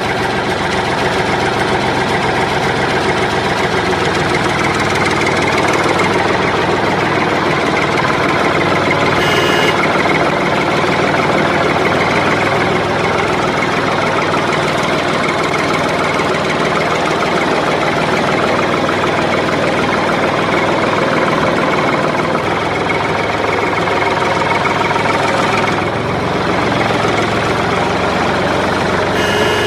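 Engine running steadily at idle without a break, the level dipping slightly about 26 seconds in.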